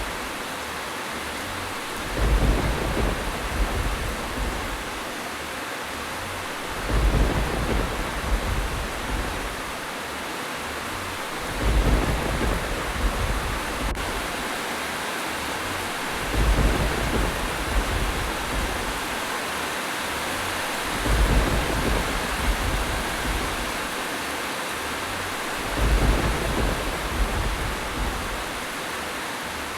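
Steady rain, with a low thunder rumble coming back at even intervals of about every five seconds, six times, each rumble lasting around two seconds.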